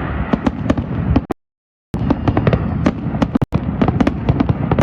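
Aerial fireworks going off in quick succession, a dense run of sharp cracks and pops over a steady rumble. The recording cuts out completely for about half a second about a second in, and again for an instant later on.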